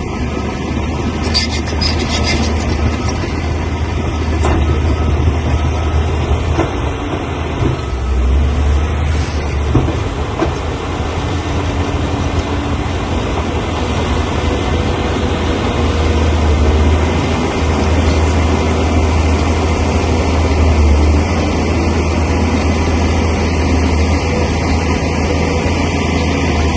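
Crawler bulldozer working: its diesel engine running steadily under load with a deep drone, and its steel tracks clanking, with a few sharper clanks.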